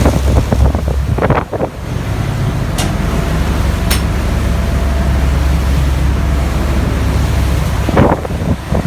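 Wind buffeting the microphone over a steady low rumble from a motor yacht under way, with two faint clicks a few seconds in.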